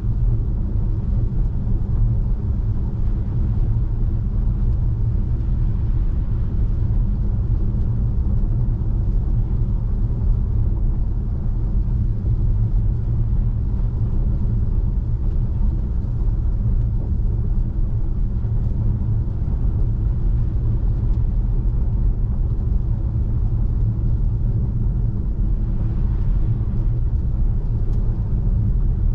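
Steady low rumble of tyre and road noise from a Tesla Model 3 driving on a snow-covered road. The car is electric, so there is no engine note, only the rolling rumble.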